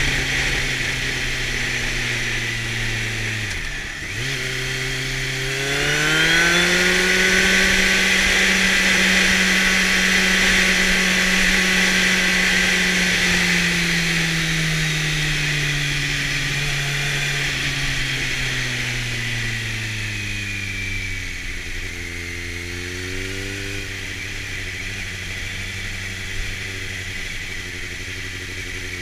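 Kawasaki Z750's inline-four engine running through a LeoVince exhaust while riding. The revs dip sharply and briefly about four seconds in, then climb and hold high for several seconds before easing off slowly. Near the end there is a short rise-and-fall and then another climb, with a rushing hiss loudest while the revs are high.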